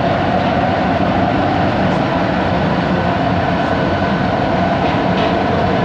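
Kelana Jaya Line automated metro train running, heard inside the carriage: a steady motor tone from its linear induction motors over continuous rumble and track noise.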